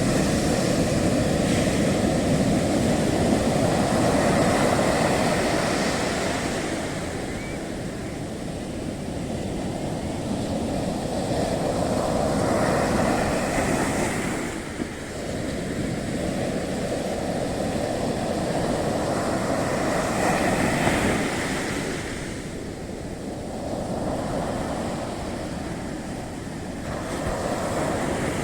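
Ocean waves breaking and washing up a beach, the surf swelling and fading in surges every seven or eight seconds.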